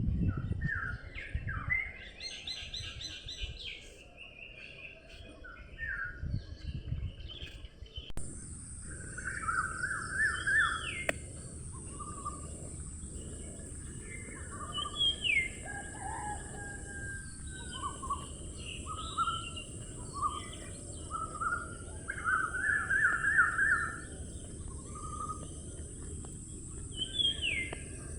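Several birds singing and chirping at once, short repeated trills and whistled notes, over a low steady background rumble. About eight seconds in, a steady high-pitched hiss joins and holds.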